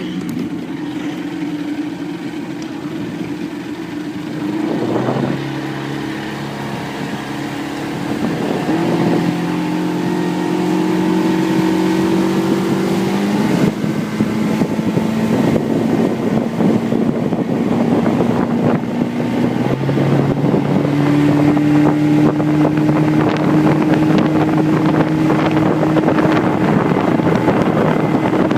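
1971 Johnson 85 hp Sea-Horse V4 two-stroke outboard running with the boat under way. Its pitch steps up several times as the throttle is opened further, and it grows louder.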